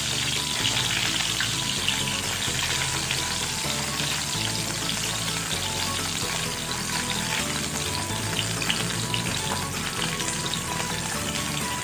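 Meatloaf slices and hotdogs sizzling in hot oil in a nonstick frying pan, with small taps and scrapes of a spatula as the pieces are turned over.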